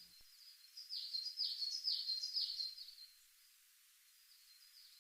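A bird calling a run of short, falling, high-pitched chirps, about two a second, for about two seconds. The calls then stop for a couple of seconds.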